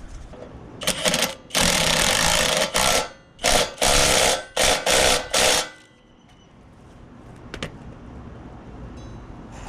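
Power impact wrench run in several short bursts of rattling hammering, working on the mini bike's wheel axle nuts. It stops about six seconds in, and a single click follows.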